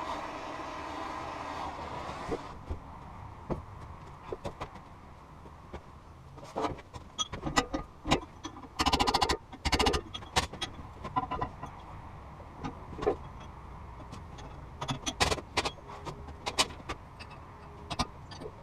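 Air tools working a broken exhaust pipe stub out of a Farmall Cub's exhaust manifold. A pneumatic tool runs steadily and stops about two and a half seconds in, followed by scattered metal clinks and knocks. Two short bursts of rapid hammering come about halfway through.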